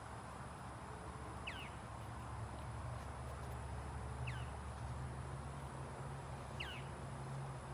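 A bird repeats a short call that slides downward in pitch, three times about two and a half seconds apart, over a low steady hum.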